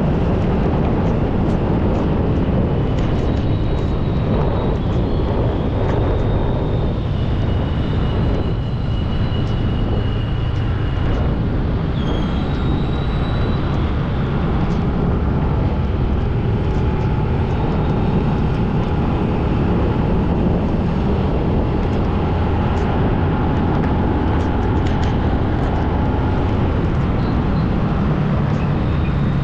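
Steady low rumble of road and traffic noise from a vehicle driving along a city road, with faint high tones coming and going over it.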